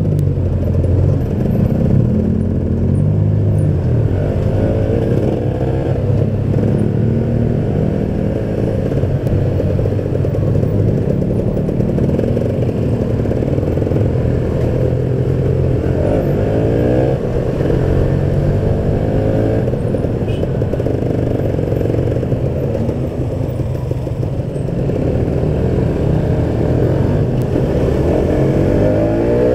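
Kawasaki Ninja 150 RR's single-cylinder two-stroke engine running while riding, heard from a camera inside the rider's helmet. Its pitch shifts with the throttle, climbing as it revs up about halfway through and again near the end.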